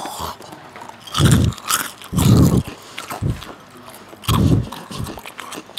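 Close-miked eating sounds: a snack being bitten and chewed, in a handful of loud, heavy bursts with crunchy crackling between them.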